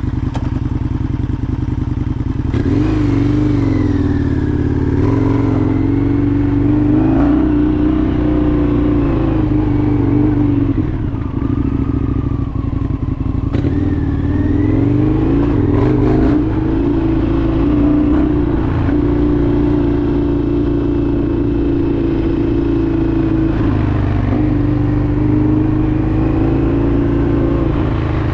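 Indian FTR 1200's V-twin engine running as the bike is ridden, the revs rising and falling again and again, with a couple of brief knocks along the way.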